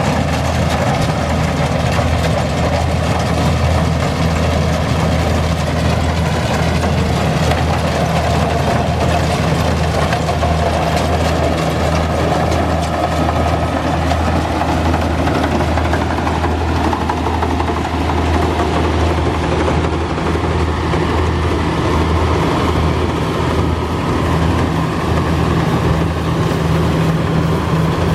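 Kubota rice combine harvester's diesel engine running steadily with an even, low hum.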